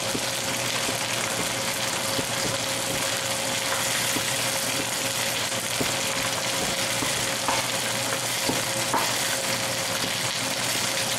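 Chicken pieces frying in oil in a Dutch oven, a steady sizzling hiss, with a few faint knife knocks on a wooden chopping board as an onion is diced.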